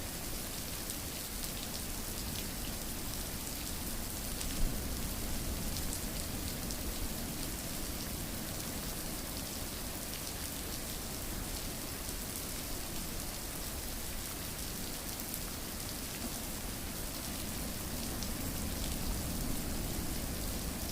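Steady rain falling, an even hiss scattered with the fine ticks of single drops, and one sharper drop hit about four and a half seconds in.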